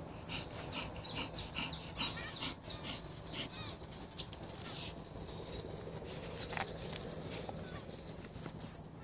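Birds chirping and trilling, many short calls and quick repeated trills overlapping, over a low steady hum.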